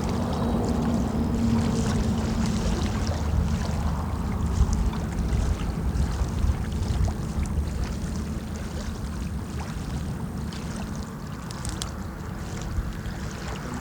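Wind buffeting the phone's microphone over lapping water: a steady low rumble with scattered small ticks, easing a little in the second half.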